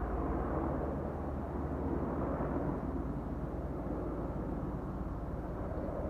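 Boeing AH-64 Apache helicopter in flight, its rotor and engines a low steady rumble that slowly fades.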